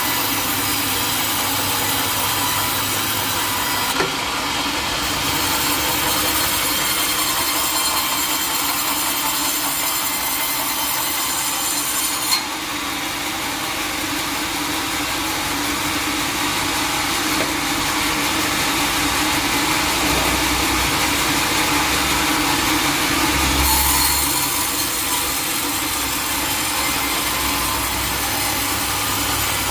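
Sawmill saw cutting through teak wood, running steadily. There is a short sharp knock about four seconds in and another about twelve seconds in, and the cut changes tone a few times along the way.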